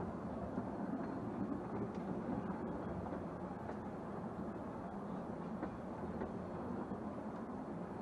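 Narrow-gauge passenger train running along the track, heard from a carriage: a steady rumble of wheels on the rails with a few faint clicks.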